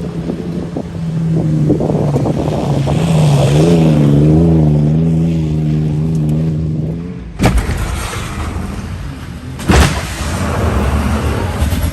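A motor vehicle's engine running steadily, its pitch wavering briefly about four seconds in. The sound changes abruptly about seven and a half seconds in, with a sharp crack there and another near ten seconds, over continued engine rumble.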